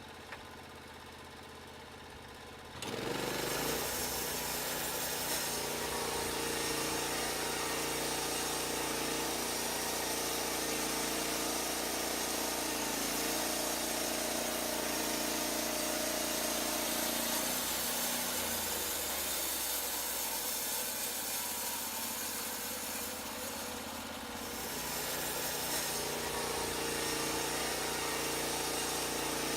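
Portable band sawmill running: the engine hums steadily, then about three seconds in the sound jumps loud and hissy as the band blade cuts through a log. It eases off for a few seconds past the middle and then picks up again.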